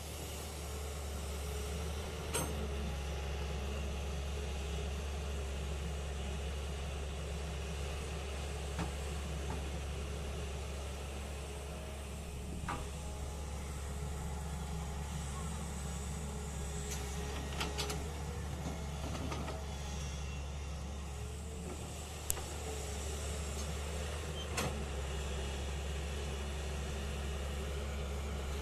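Heavy vehicle's engine running steadily with a low, even hum, with a few short sharp knocks and clicks scattered through it.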